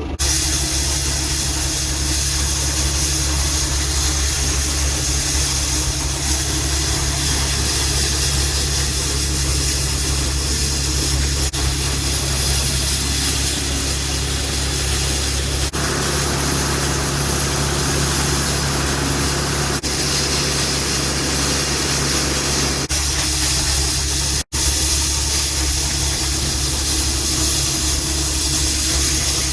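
Case 1594 tractor's diesel engine running steadily under a constant hiss. The sound shifts abruptly a few times and drops out for an instant about 24 seconds in.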